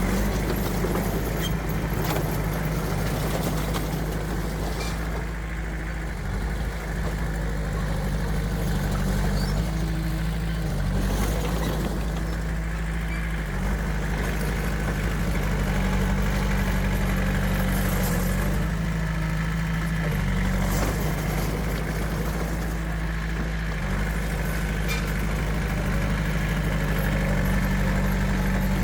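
Heavy diesel engine of earthmoving machinery running steadily, its pitch shifting a little now and then, with a few short knocks.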